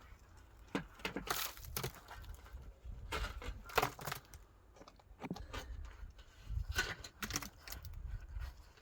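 Irregular knocks and scrapes from hand building work, unevenly spaced, a few a second at the busiest, with a sharper knock near the middle.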